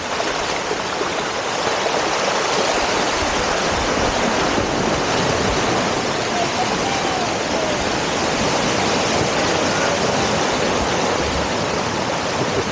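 Steady rush of water from a waterfall and the stream running over its rock slide.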